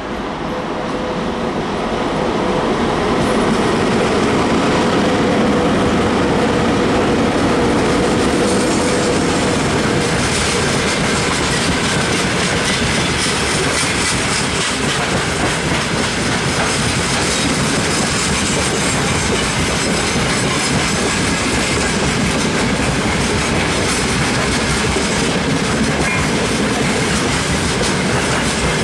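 Freight train of gondola wagons rolling past close by, growing louder over the first few seconds, with a steady hum that fades away. Then the wagon wheels clatter rhythmically over the rail joints, with some wheel squeal.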